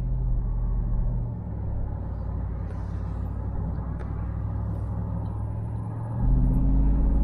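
Interior sound of a Jeep Grand Cherokee SRT8 on the move: a steady low HEMI V8 engine and road rumble. It eases off a little over a second in, then swells again near the end with a low droning hum as the engine picks up.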